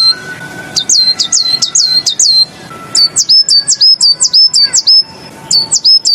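Willow tit (the bird keepers' 'beizi') singing in the Tieling song type: three phrases of quick, repeated whistled notes, each note sliding down steeply and then levelling off, about four or five notes to a phrase. The middle phrase uses a different, two-part note.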